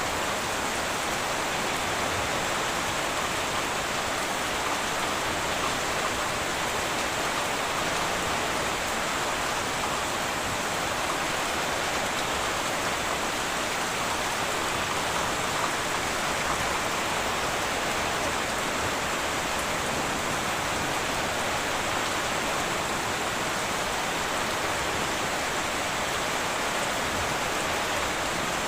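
Heavy rain falling steadily on a tin roof, an even hiss with no breaks or thunder claps.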